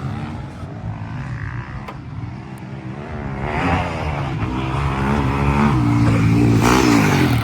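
Dirt bike engine running, its note wavering as it is revved, growing louder through the second half.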